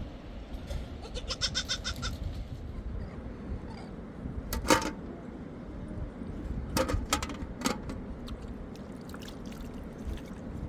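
Livestock bleating, one pulsing call a little over a second in, with several short sharp sounds from about halfway on.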